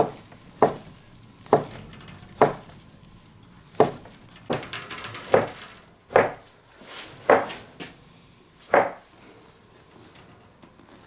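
Kitchen knife cutting rolled-out noodle dough into noodles on a cutting board: about a dozen separate knocks at an uneven pace, several coming close together near the middle.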